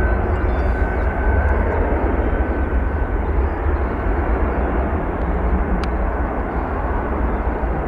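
Jet airliner engines making a loud, steady rumble, with a faint whine that fades away over the first few seconds.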